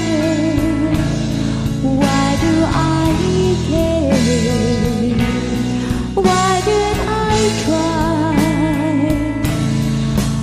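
A song: a solo singing voice holding long notes with vibrato over a backing track with sustained low chords and a steady beat.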